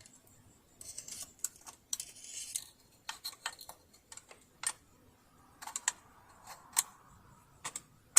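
Hands working on a partly dismantled sewing machine: irregular sharp clicks and taps of small parts and tools, with a brief scraping rustle about a second in and a loud click at the end.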